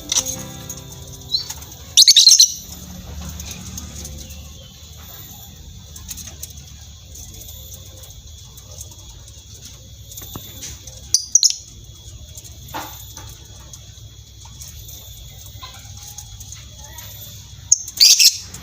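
Birds chirping, with a steady high twittering throughout and three short, loud bursts about two, eleven and eighteen seconds in.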